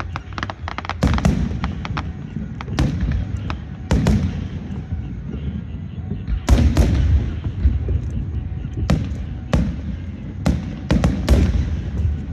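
Fireworks going off in a celebratory display: a string of loud, irregular bangs about a second or two apart, each with a low rumbling tail, several coming in quick pairs near the middle and end.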